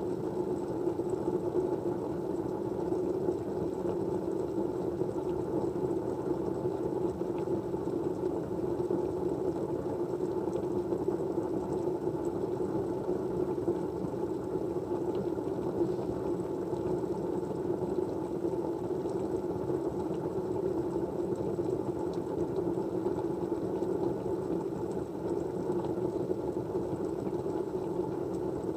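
Steady low white noise, an even rushing sound that does not change, with a few faint ticks.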